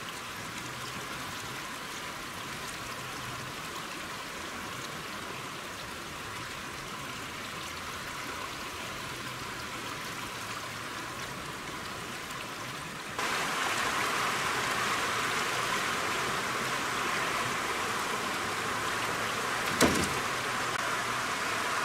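Steady rushing noise of water, rain or a stream. It gets abruptly louder about thirteen seconds in, and there is one sharp knock near the end.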